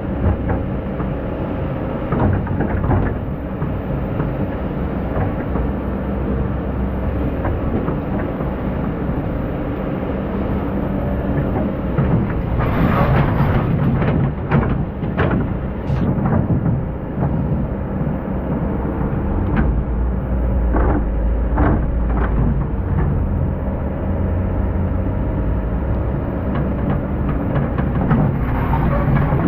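Excavator's diesel engine running steadily under load, with a run of knocks and scrapes about halfway through and more a few seconds later as the machine works sand.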